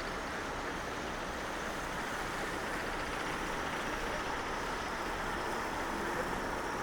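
Steady city street traffic noise, with a faint engine tone from a passing vehicle near the end.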